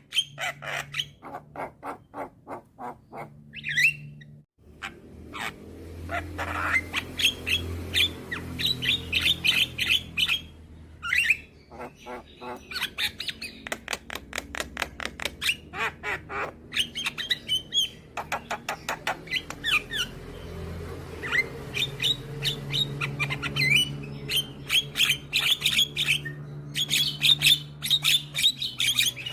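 Young Javan myna (jalak kebo) singing actively, a near-continuous chatter of rapid clicking notes and harsh squawks, with a low steady hum underneath. There is a brief break about four seconds in.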